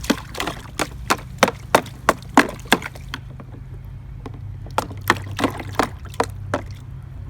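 A toddler's quick sharp taps and slaps at a plastic water table and its water, about three a second for three seconds, then a few more near the end, over a steady low hum.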